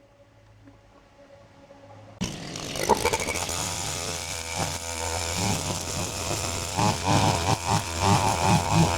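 Small engine-driven power tool starting up suddenly about two seconds in and running loudly, its pitch rising and falling as it is revved.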